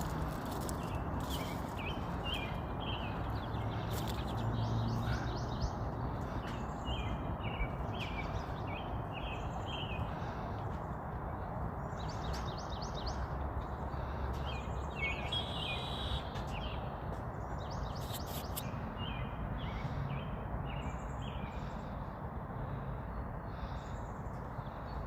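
Birds calling in short bursts of quick chirps and chattering notes, one after another, over a steady background hiss of outdoor noise.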